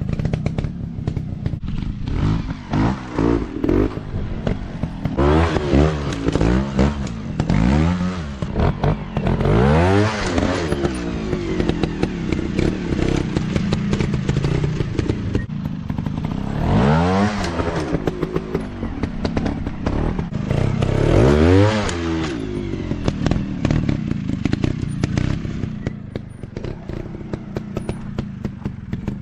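Dirt bike engine running and revving hard, its pitch climbing and dropping in repeated bursts around the middle of the stretch, then easing toward the end.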